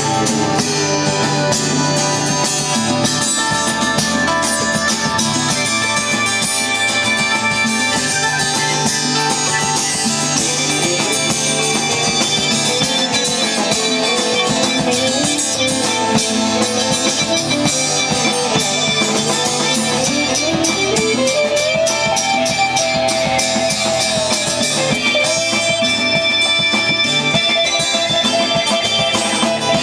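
Live band playing an instrumental rock jam: a lead guitar line with sliding, bent notes over drums and a steady bass.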